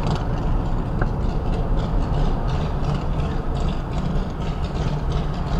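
Heavy truck's diesel engine running steadily, a low continuous rumble.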